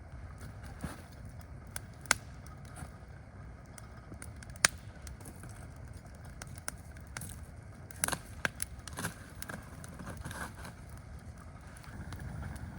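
Campfire crackling, with irregular sharp pops and snaps a few seconds apart over a low steady rumble.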